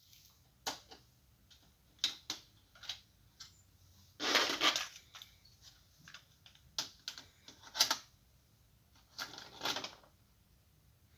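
Hitachi Lo-D D-580 cassette deck being handled and operated: a series of separate mechanical clicks and clunks, with a longer rattling clatter about four seconds in and another cluster near the end.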